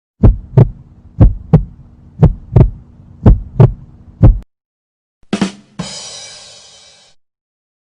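Heartbeat sound effect: deep paired lub-dub thumps, about one pair a second, four pairs and then a single beat. It is followed by a short hit and a ringing, hissy sound that fades out.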